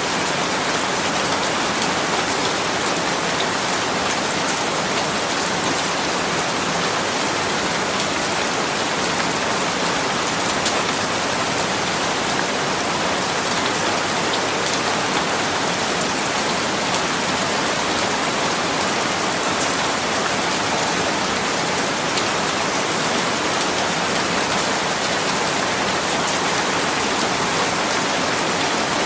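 Steady rain falling on hard surfaces, a dense even hiss of many small drop ticks with no thunder.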